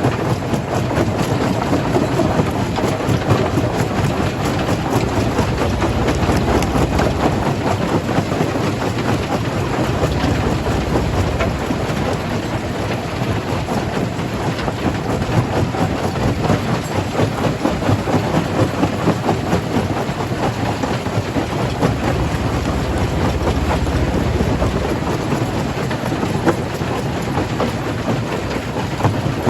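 Rock crusher working stone: a steady, dense clatter of rocks breaking and tumbling over a heavy low machine rumble.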